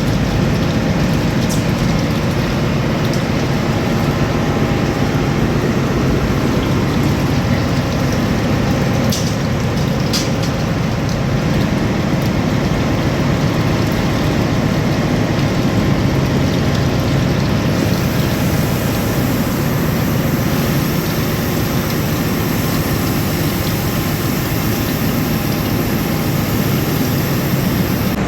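Ship's engine-room machinery running: a loud, steady, deep drone with a hiss above it that gets brighter about two-thirds of the way through.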